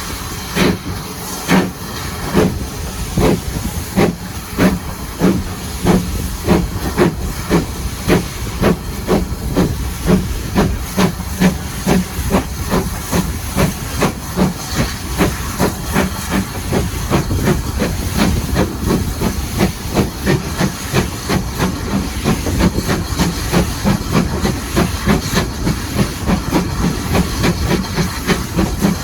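Steam locomotive chuffing over a steady hiss of steam, the exhaust beats quickening from under one a second to two or three a second as the engine picks up speed.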